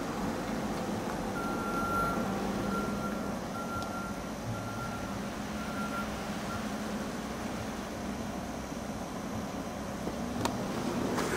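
A vehicle's backup beeper sounding a run of high beeps, about one a second, which stop after about five seconds, over a steady low engine hum. A sharp click comes near the end.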